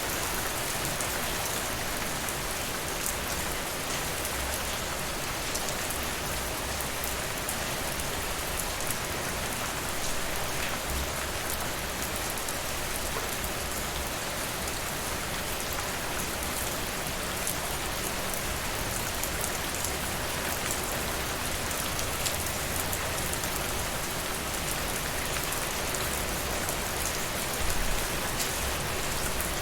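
Steady rain, an even hiss, with scattered small crackles from a fireplace log fire mixed in; a brief low rumble near the end.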